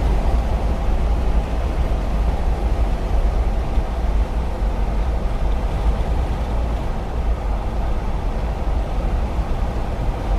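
Steady road and engine noise inside a moving car: an even, heavy low rumble with tyre noise over it.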